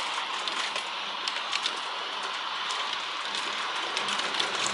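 Heavy wind-driven downpour: a steady hiss of rain with many sharp little ticks of drops striking hard surfaces close by.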